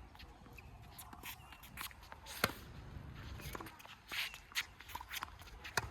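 Tennis rally: a few sharp strikes of racket on ball and ball bouncing on the court, with players' footsteps shuffling between hits.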